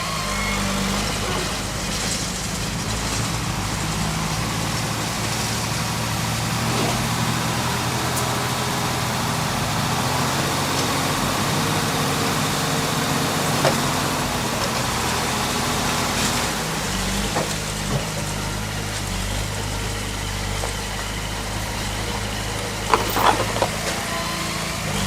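Heavy diesel engine of earthmoving machinery running steadily, its pitch shifting a few times, with a few short knocks.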